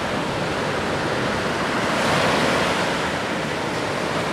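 Ocean surf washing onto the beach: a steady rush of waves that swells a little louder about two seconds in.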